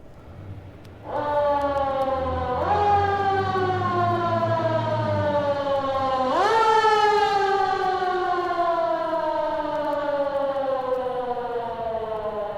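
Siren wailing: its pitch rises sharply three times in quick succession, then falls slowly in one long descending wail. A low rumble runs under the first half.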